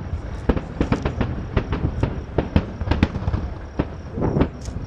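Aerial fireworks display: a rapid, irregular string of shell bursts and bangs, several a second, over a continuous rumble of distant explosions and echoes.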